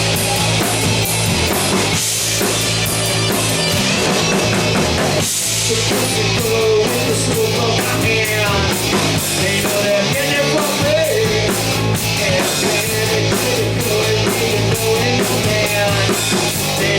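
Hard rock music with driving drums and electric guitar and no singing; from about six seconds in, a lead line bends and wavers over the band.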